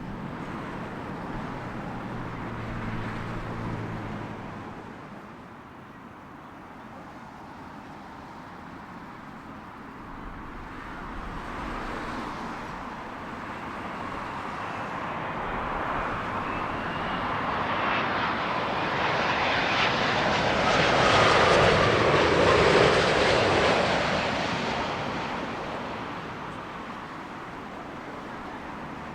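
Jet airliner passing low overhead on its landing approach. Its engine noise swells slowly to a peak about twenty-two seconds in, then fades away.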